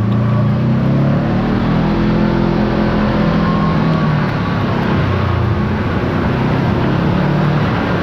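Kawasaki Teryx KRX4 1000 side-by-side's parallel-twin engine running under way, its pitch rising and falling a little as the throttle changes.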